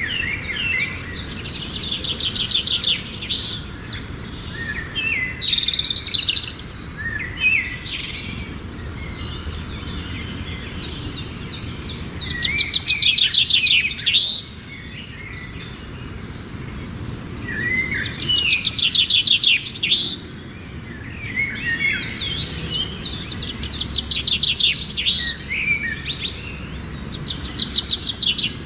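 Songbirds singing: repeated phrases of rapid, high trilled notes mixed with short chirps, coming every few seconds, over a steady low background hum.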